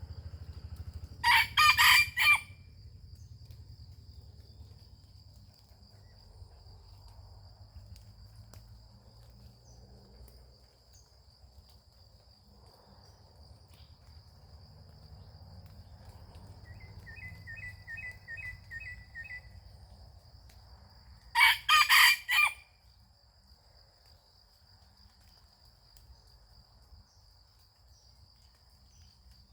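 A junglefowl rooster crows twice, each crow short (about a second), the second about twenty seconds after the first. A steady high insect whine runs underneath, and a small bird gives a quick run of about seven chirps between the crows.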